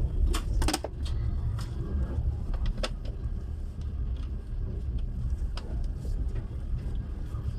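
Low, steady rumble of a moving passenger train heard inside a sleeper carriage, with scattered light clicks and knocks from the carriage fittings.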